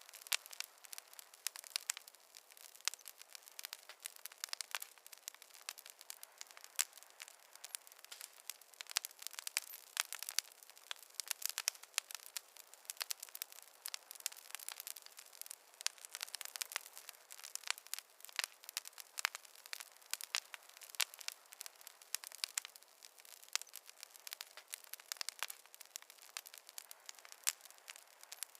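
Fire crackling in a fireplace: a steady stream of small, irregular pops and snaps over a faint hiss.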